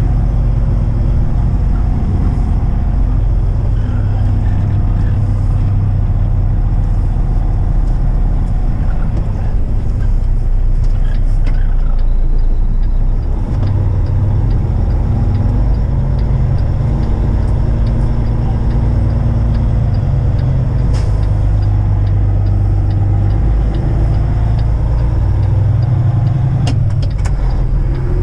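Kenworth semi truck's diesel engine droning steadily while driving, heard from inside the cab, its pitch shifting a few times as the engine speed changes.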